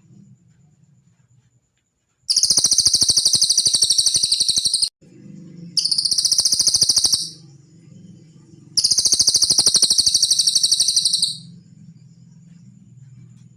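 A cililin songbird singing three long, rapid, high-pitched trills with short gaps between them. A faint steady low hum runs underneath.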